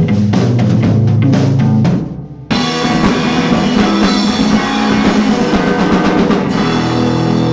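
A rock band jamming on drum kit with bass notes underneath, the drums hitting in a steady beat. About two seconds in the music breaks off briefly, then the full band comes back in with a denser, brighter wash of sound.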